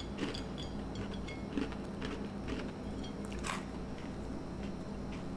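Crunching and chewing of Teddy Grahams, small bear-shaped honey graham crackers, in short crisp crackles, the sharpest about three and a half seconds in.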